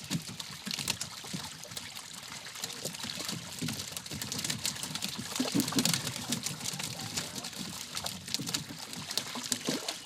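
Water splashing and trickling, with scattered small clicks and knocks and a few faint voices in the background.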